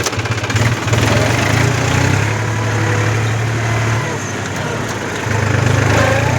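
New Holland tractor's diesel engine running steadily with a deep low hum, easing off slightly about four seconds in and picking up again near the end.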